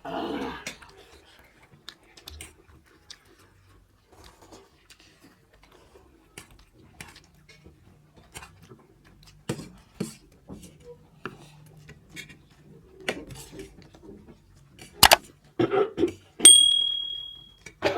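Eating utensils clicking and scraping against plates and bowls during a noodle meal: scattered light clicks, a sharper clack near the end, then a brief high ring.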